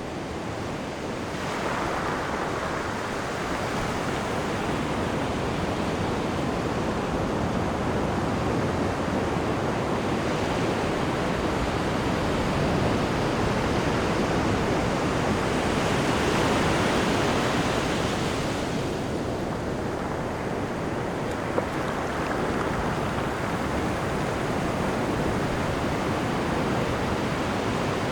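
Sea water rushing and churning in a cruise ship's wake off the stern, a steady surf-like rush that swells a little midway.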